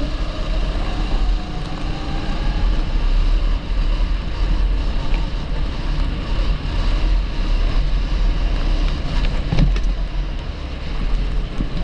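TB kart's 270cc four-stroke engine running steadily on track.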